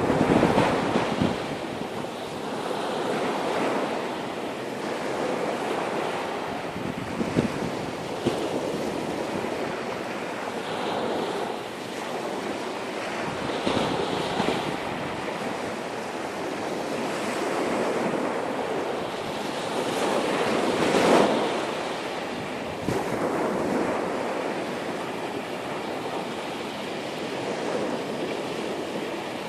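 Sea surf washing onto a beach in repeated swells, with wind buffeting the microphone; the loudest surge comes about twenty seconds in.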